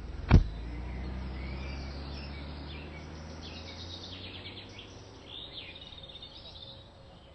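One sharp, loud thump about a third of a second in, followed by a low rumble that fades away over several seconds. Small birds chirp through the second half.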